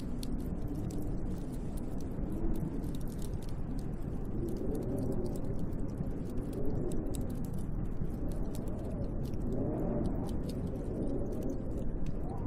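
Snowstorm wind howling, its pitch wavering up and down with the gusts over a steady low rumble, with faint scattered crackles and ticks.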